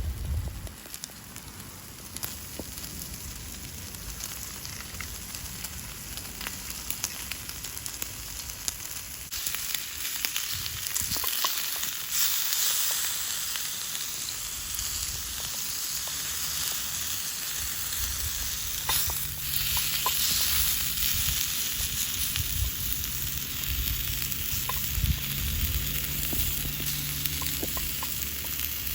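Beef tongue sizzling in a cast-iron skillet: a steady frying hiss that grows louder about nine seconds in, with scattered pops of fat.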